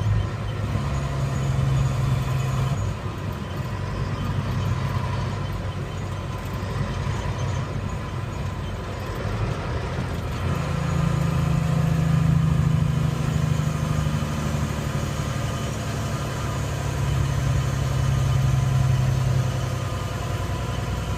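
Truck engine and road noise while driving; the engine note drops a few seconds in and rises again about halfway through.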